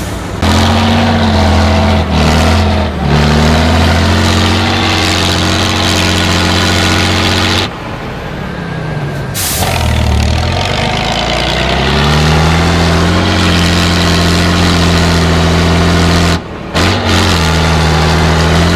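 Big mega-truck engines running hard at high, steady revs, with the revs dropping away and climbing back up about halfway through. The sound breaks off sharply a few times, as at cuts between clips.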